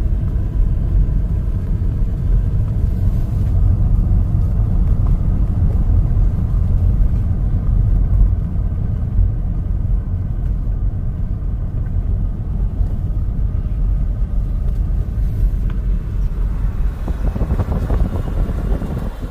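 Loud, steady low rumble, with no clear tone or rhythm.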